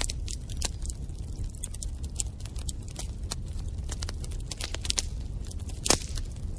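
Wood fire crackling in a fireplace: rapid, irregular snaps over a low steady rumble, with one louder pop near the end.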